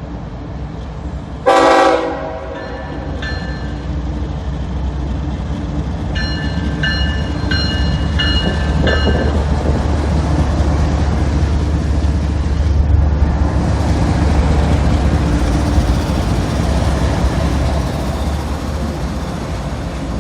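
Freight train diesel locomotive sounding one short horn blast, then about five strokes of a bell in the middle. Under both, the train's engine rumble and wheels on the rails build up and stay loud as it rolls past.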